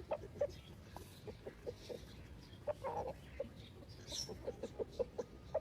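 Free-range hens clucking in short, scattered clucks, with a single higher chirp about four seconds in.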